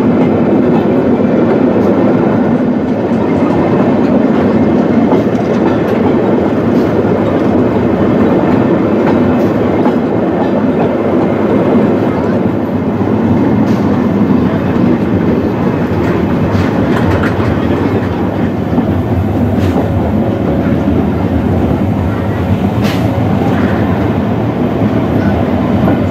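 Narrow-gauge steam train running, heard from an open wagon in the train: a steady rumble and clatter of the carriages' wheels on the track, with a few sharp clicks in the second half.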